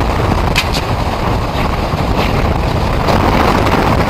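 Strong wind buffeting the microphone: a loud, steady rushing noise with a few faint crackles.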